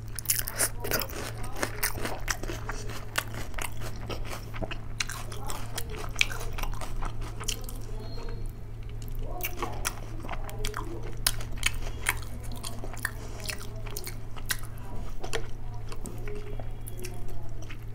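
Close-miked eating: wet chewing with many sharp mouth clicks and crunchy bites while mouthfuls of hand-eaten rice and dal curry are chewed, over a steady low hum.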